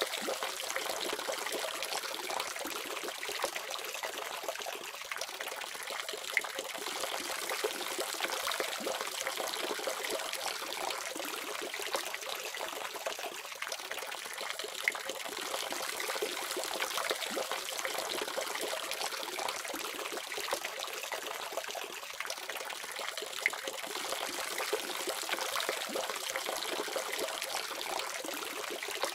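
Water faucet running steadily, a constant splashing hiss of tap water falling, with small droplet ticks scattered through it.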